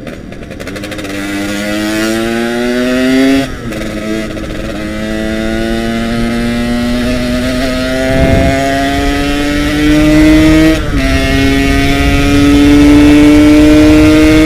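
Stock Yamaha RX-King 135 cc two-stroke single accelerating as it is ridden, its pitch rising steadily through each gear, with upshifts about three and a half seconds in and again about eleven seconds in.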